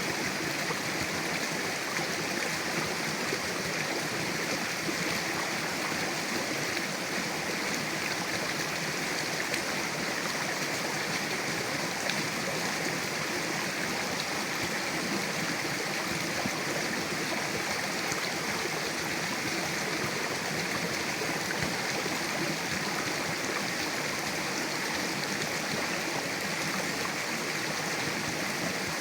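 Mountain river flowing steadily over rocks, with a continuous rush of water and no breaks.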